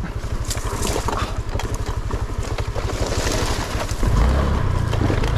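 Honda Click 125cc scooter being ridden on a dirt road: the single-cylinder engine running under a haze of wind noise, with a few sharp knocks from the rough surface. About four seconds in the low engine rumble gets louder.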